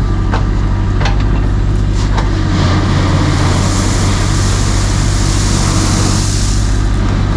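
Excavator's diesel engine running steadily as its bucket pushes fill along the drain trench, with a few knocks in the first couple of seconds and a hiss that comes in about two and a half seconds in.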